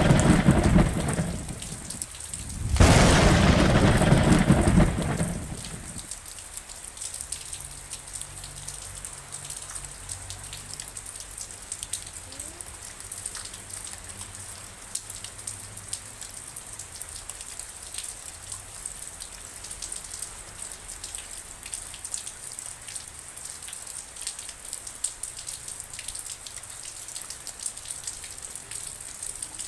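Rain falling steadily, with fine drips and patter throughout. Two loud rolls of thunder come in the first five seconds, the second from about three seconds in.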